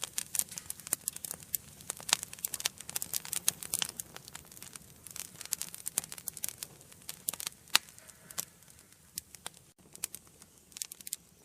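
Wood fire crackling in a fireplace: many sharp pops and snaps over a soft low rumble of the flames, thinning out to scattered pops in the second half.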